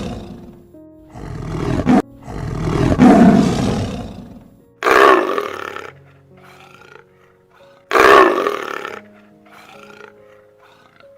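A series of loud, deep animal roars, each about a second long, with shorter, quieter calls between them, over background music.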